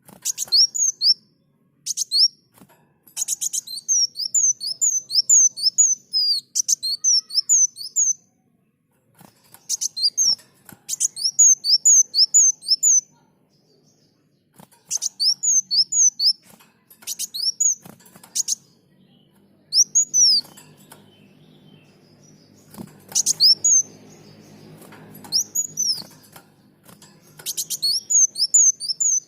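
Kolibri muncang sunbird singing vigorously: bursts of rapid, high, falling chirps strung into phrases a second or two long, repeated with short pauses between them.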